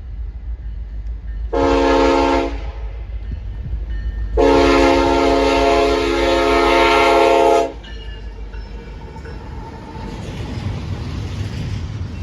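Diesel locomotive air horn sounding a short blast and then a long one of about three seconds, the close of a grade-crossing signal. After the horn, the low rumble of the approaching train grows louder.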